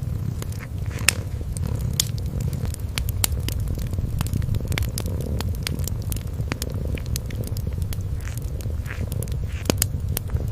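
Wood fire crackling, with frequent sharp irregular pops, over a continuous low cat purr.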